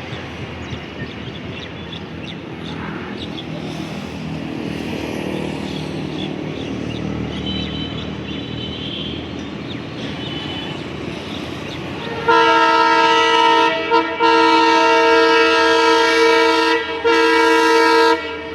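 Steady rumble of a train running on the track, then about twelve seconds in a locomotive's multi-tone horn sounds loudly in three blasts, the middle one the longest.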